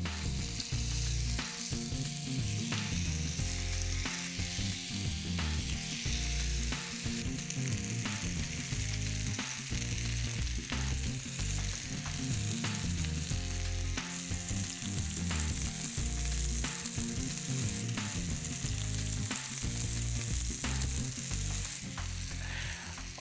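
Marinated paneer, pineapple and vegetable skewers sizzling steadily in a little oil on a flat nonstick pan.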